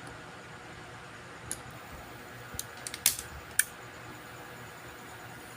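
Light, sharp clicks and taps from handling multimeter probes on a circuit board during a voltage check: about five scattered over a couple of seconds, the loudest a little past three seconds in, over a steady low hum.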